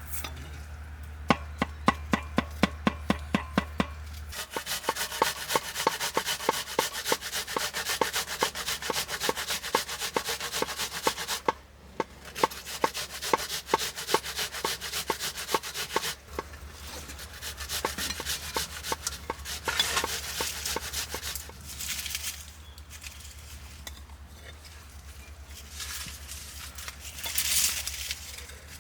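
Quick, evenly spaced knocks for the first few seconds, then rapid repeated scraping and rubbing in spells broken by short pauses.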